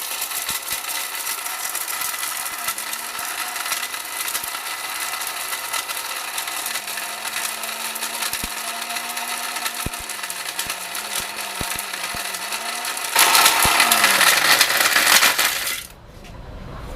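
An 1100-watt mixer grinder (mixie) grinding pieces of broken tile in its jar: a steady motor hum under a dense, clattering rattle of hard fragments. It gets louder about 13 seconds in, and the motor stops about a second before the end.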